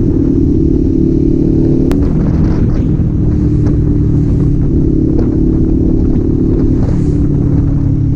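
Kawasaki Z400 parallel-twin engine and exhaust running at steady riding revs, the pitch stepping slightly up and down a few times with small throttle changes. A sharp click about two seconds in.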